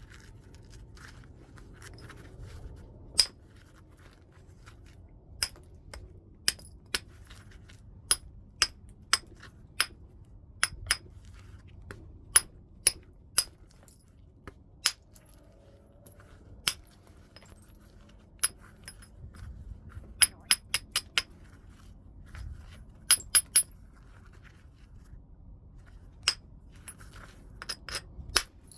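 Flintknapping heat-treated Burlington chert: a knapping tool strikes and flakes the stone in sharp, glassy clicks, spaced irregularly and sometimes coming two or three in quick succession.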